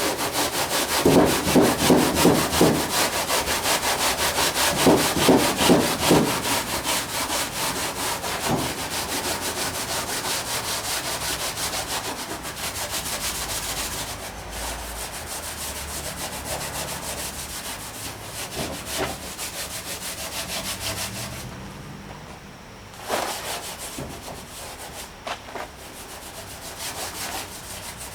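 Scotch-Brite pad scrubbed rapidly back and forth by hand over the painted steel body of a 1959 VW single cab truck, rubbing through the top paint to uncover the patina. The strokes are heaviest at first, lighten, and pause briefly about three quarters of the way through.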